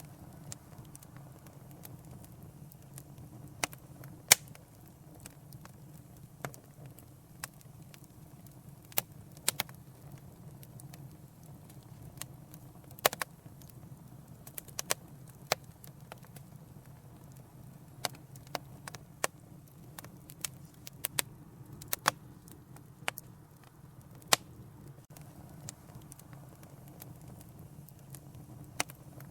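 Wood fire crackling in a fireplace: irregular sharp pops and snaps, some much louder than others, over a steady low rumble of the flames.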